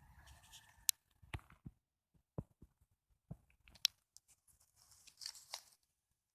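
Handling noise: a string of sharp clicks and taps, with a short rustling scrape near the end.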